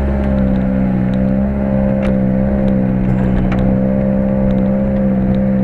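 SsangYong Korando's engine running at a steady speed, an even drone with a higher whine that wavers slightly in pitch, and a few light clicks or knocks over it.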